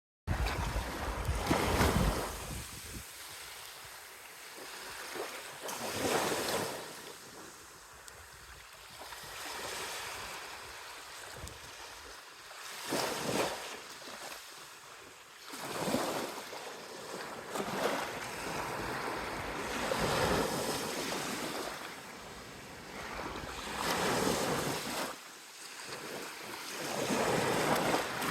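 Sea waves washing onto the shore in repeated surges every few seconds, with wind buffeting the microphone.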